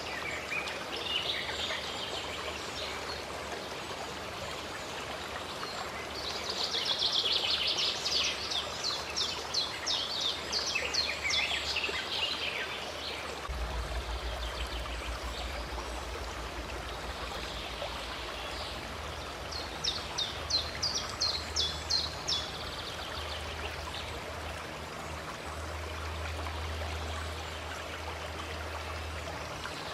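Running water of a stream, with birds singing over it: a long run of rapid notes about a quarter of the way in, and a short burst of about eight quick notes about two-thirds of the way through.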